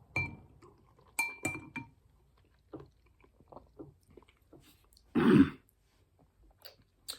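Spoon clinking against a soup bowl, four ringing clinks in the first two seconds, followed by quiet eating sounds and a brief louder sound about five seconds in.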